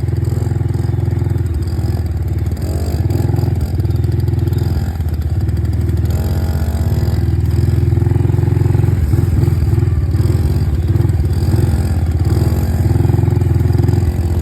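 Dirt bike engine running while riding, steady with the revs rising and falling a little at times.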